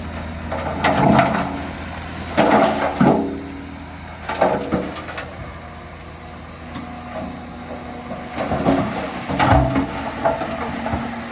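Heavy diesel earthmoving machinery running with a low engine drone, broken by several loud bursts of metallic clanking and squealing.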